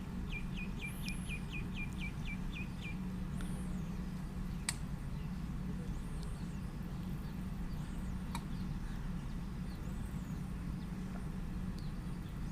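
Bird chirps in the background: a quick run of about ten short chirps in the first three seconds, then scattered high calls, over a steady low hum. Two sharp clicks come in the middle.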